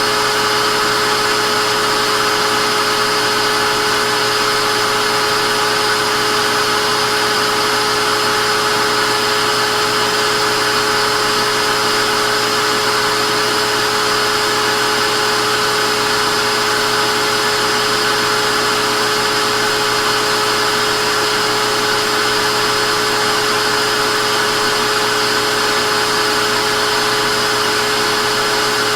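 Vacuum cleaner motor running steadily, a constant whirring hiss with a fixed whine.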